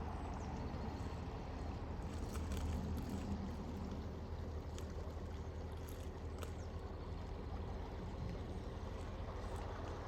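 Motor cruiser's engine running steadily at low speed as the boat passes, a continuous low hum.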